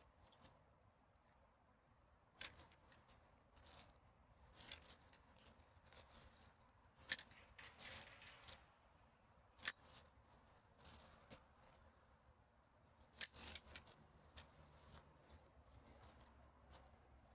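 Irregular rustling and crackling of trash and forest litter being handled, with several sharp clicks, the loudest about 2.5, 7, 9.7 and 13 seconds in.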